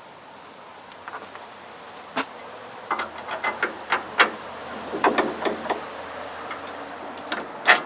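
Scattered metallic clicks and clanks as a sawmill handle is worked onto its shaft and the holes are lined up for a bolt, with a sharper knock near the end.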